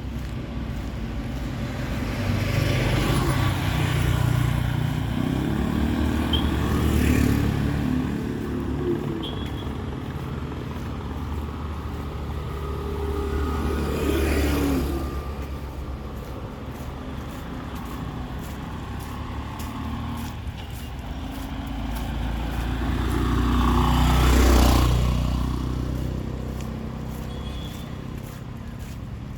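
Road traffic on a town street: a steady engine rumble as several motor vehicles pass close by one after another, each swelling and fading, the last one near the end the loudest.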